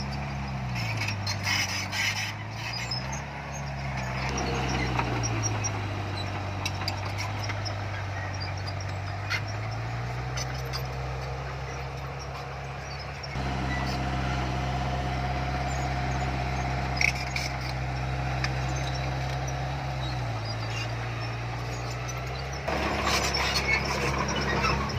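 Heavy diesel engine of earthmoving machinery running, its pitch dipping and rising again several times as the throttle and load change. Scattered metallic clanks and knocks come near the start and again near the end, and the engine gets suddenly louder about halfway through.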